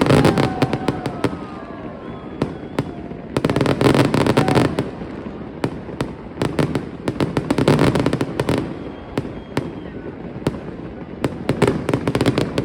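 Fireworks exploding overhead: waves of rapid crackling bangs over a low rumble of booms, rising and falling about every three to four seconds.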